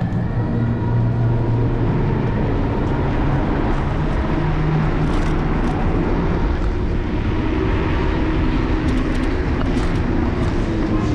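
Steady city traffic and road rumble heard from a moving electric scooter, with a low steady hum from passing vehicles.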